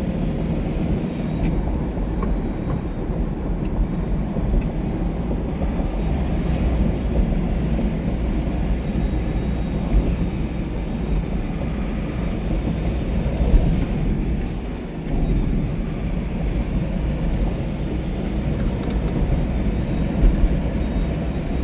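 Steady low rumble of a moving vehicle or road traffic, with a few faint clicks.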